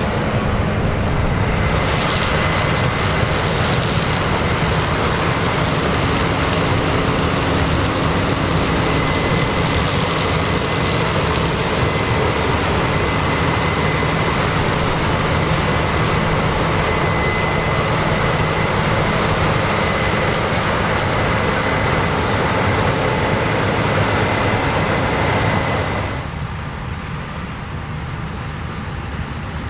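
Combine harvester running in standing corn: a steady engine and threshing-machinery drone with a high, constant whine over it. About 26 seconds in the sound drops suddenly to a quieter, duller running noise.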